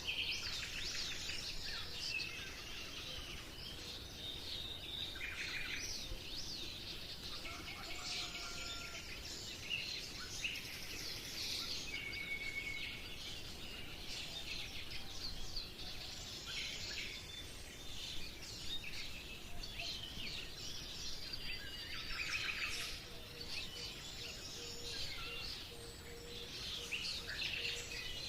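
Birds chirping and calling: many short, overlapping chirps and brief whistled notes throughout, over a faint low background hum.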